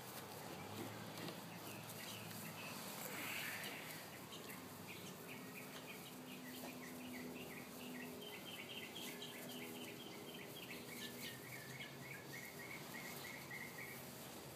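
A small bird chirping a long run of short, high notes, several a second, starting a few seconds in and stopping near the end, over faint outdoor background noise.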